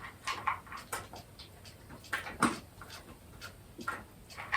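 A dog making several short snuffling and mouth noises, each one brief and separate from the next.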